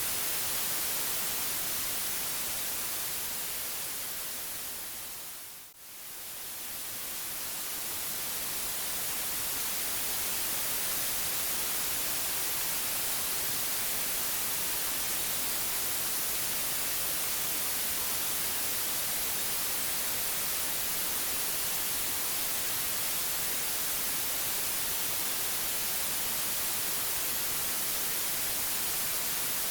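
Steady white noise, an even hiss with no tones in it. It fades down to a brief dip about six seconds in, then swells back up over the next few seconds.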